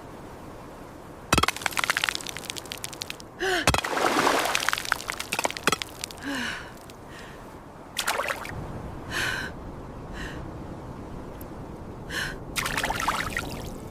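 A person gasping and breathing hard in short breaths a few seconds apart, after sharp cracking and crunching noises in the first few seconds, over a steady windy hiss.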